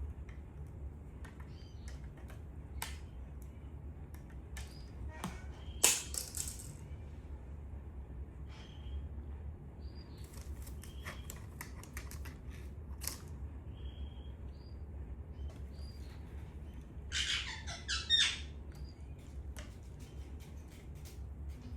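Indian ringneck parrot moving about: scattered small clicks and taps with short, soft chirps. Louder noisy bursts come once about six seconds in and again, longer, about three-quarters through.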